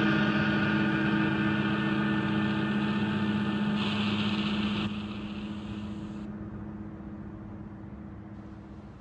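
Steady low drone holding several fixed pitches, with its upper hiss dropping away partway through, fading out gradually toward the end.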